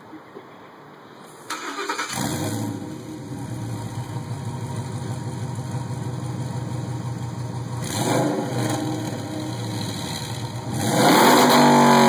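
2012 Ford Raptor SVT's 6.2-litre V8, breathing through long-tube headers, high-flow cats and a cat-back exhaust, cranks briefly and catches on a warm start about a second and a half in, then idles steadily. There is a short blip of the throttle around eight seconds, and near the end a rev that climbs and holds, the loudest part.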